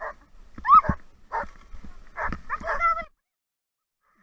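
Siberian huskies barking, yipping and whining: a run of short barks mixed with high whines that rise and fall in pitch, the loudest whine about a second in. The sound cuts off abruptly about three seconds in.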